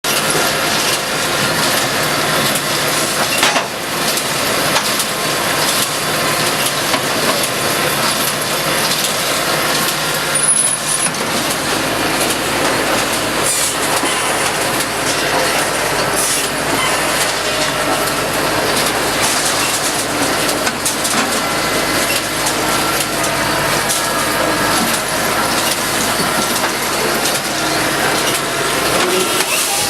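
KS45S firewood processor running, its hydraulic splitter forcing logs apart, with a few sharp knocks and cracks of wood over the steady machine noise.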